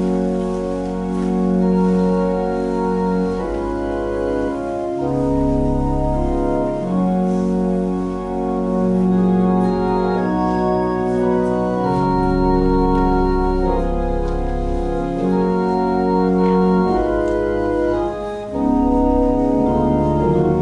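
Organ playing a slow piece of held chords that change every second or two over a sustained low bass line.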